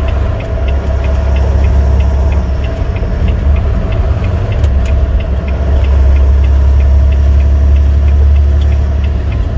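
Semi-truck engine and road noise heard inside the cab: a loud, steady low rumble with a regular light clicking about three times a second.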